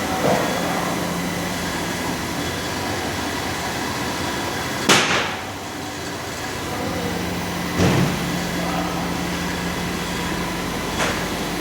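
Steady background noise with a low hum, broken by three sharp knocks: a loud one about five seconds in, then two more near eight and eleven seconds.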